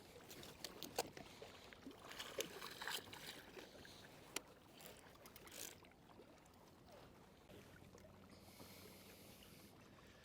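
Faint water splashes and drips with a few light knocks against a kayak while a small thornback ray is landed, going quieter over the last few seconds.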